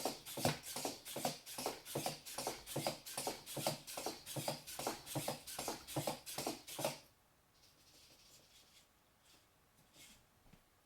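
3D-printed quadruped robot dog walking under a 1 kg payload: a steady rhythm of clicks and taps from its steps and servos, about three to four a second, stopping about seven seconds in, followed by a few faint ticks.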